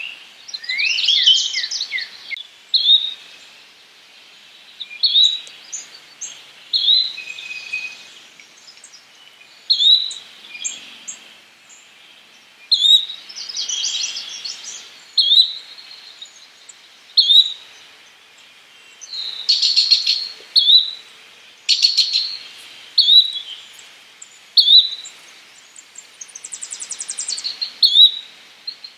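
Yellow-bellied flycatcher calling, a short note repeated about every two seconds, among other birds chirping and giving rapid buzzy trills.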